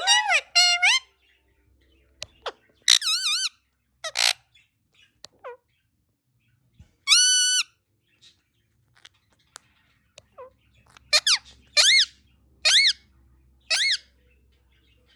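Indian ringneck parrot screaming: a string of loud, shrill calls, some wavering in pitch. One is held steady for about half a second in the middle, and four come in quick succession near the end.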